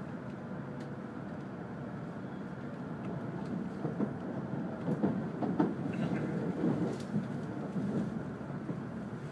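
Cabin noise inside an E5 series Shinkansen train running on the line: a steady low rumble that grows louder and rougher from about four to eight seconds in, then eases off.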